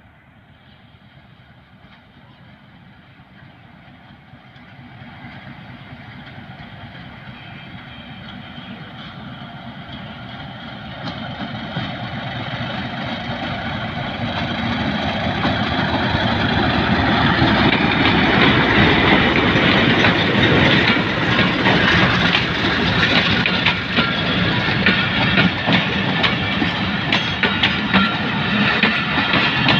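Pakistan Railways HBU-20 diesel-electric locomotive approaching, its engine growing steadily louder for about fifteen seconds as it draws near and passes. It is followed by the passenger coaches rolling by, wheels clicking over the rail joints.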